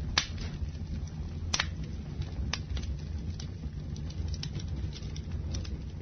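Campfire burning: wood crackling and popping in scattered sharp snaps over a steady low rumble, with two louder pops, one just after the start and one about a second and a half in.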